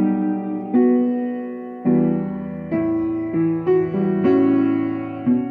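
Instrumental song intro on piano: sustained chords struck about once a second, each left to ring and fade before the next.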